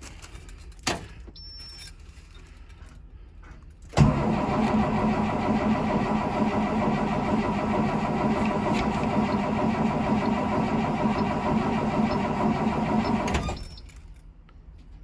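International DT466E six-cylinder diesel in a 2003 Blue Bird school bus being cranked by its starter for about nine seconds without firing, then the starter is released: a cold-soaked diesel at 11°F, block heater not plugged in, failing to start. A single click comes about a second in.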